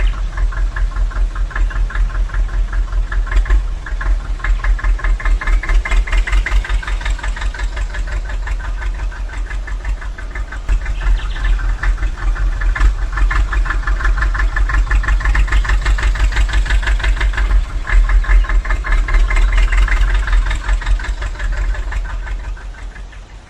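Miniature model engine of a DIY mini water pump rig running with a fast, even putter, then dying away near the end.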